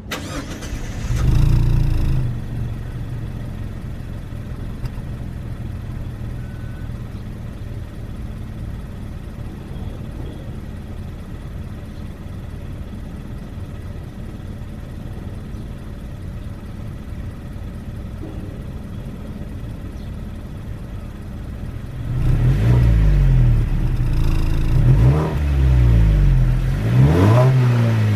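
Exhaust of a 2.0-litre Mazda Axela (Mazda3, BMEFS) with the car standing. It gives a short throttle blip about a second in, then idles steadily. From about two-thirds through, it is revved up and down several times.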